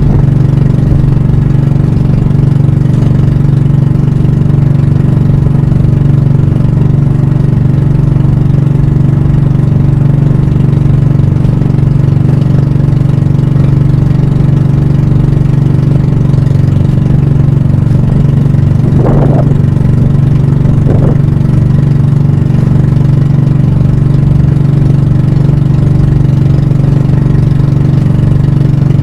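Pump boat (banka) engine running steadily at an even speed.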